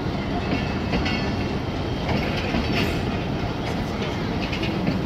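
Pakistan Railways passenger coaches rolling past as the express pulls out: a steady rumble of wheels on the track, with scattered clicks and knocks.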